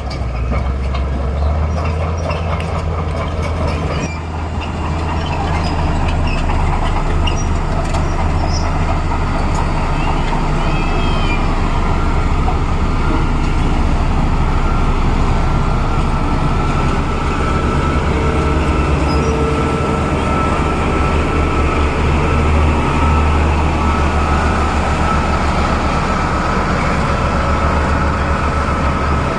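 Bulldozer's diesel engine running steadily, a heavy low drone, with a faint high whine joining about halfway through.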